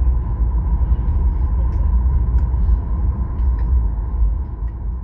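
Cabin noise inside a Boeing 737 MAX-8 taxiing after landing: a steady low rumble with a thin steady whine above it and a few faint clicks, easing off near the end.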